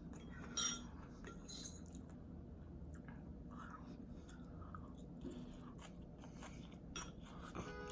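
Close-miked chewing and mouth sounds of someone eating pancit bihon rice noodles: scattered soft wet smacks and clicks, the loudest about half a second in.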